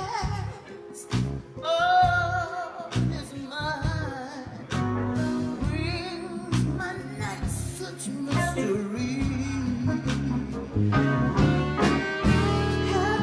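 A woman singing, her voice wavering with vibrato on held notes, over a live jazz-blues band with bass and drums.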